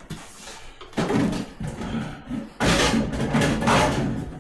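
Clattering and scraping of plastic as a fridge's cover panel is worked loose and pulled off, in two loud stretches, the first about a second in and the second from about halfway to near the end.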